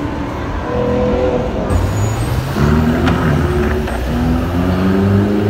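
Sports car engines running and revving in city traffic, their pitch rising and falling. The sound changes abruptly a little under two seconds in.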